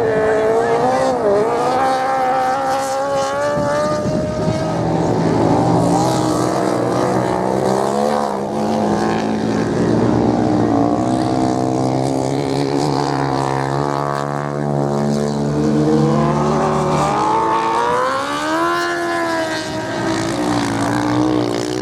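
Several racing motorcycle engines running at once, their pitch rising and falling as the riders accelerate and change gear. Near the end one engine climbs steeply in pitch under hard acceleration, then holds.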